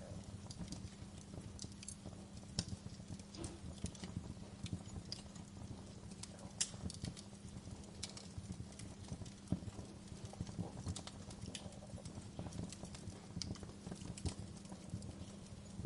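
Fire crackling, with irregular sharp pops and clicks over a steady low rumble of flames.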